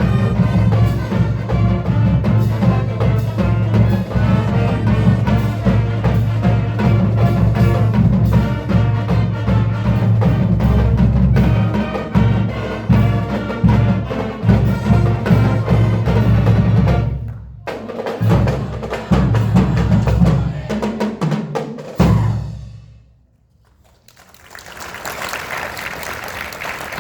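Marching band music with loud drums and percussion, snare and bass drum, which stops abruptly about 22 seconds in. After a moment of near silence, applause starts near the end.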